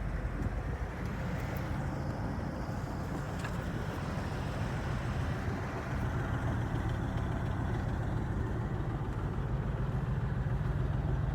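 Ford Bronco engine idling through a new exhaust with Flowmaster 50 Series Delta Flow mufflers, electric cutouts closed: a steady, low rumble that is a little quiet.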